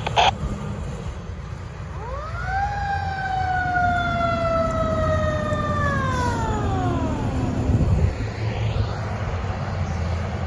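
Fire truck siren winding up about two seconds in to a high, single howl that slowly sags, then winding down and dying out about eight seconds in, the rise-hold-fall of a mechanical siren. A heavy truck engine rumbles underneath.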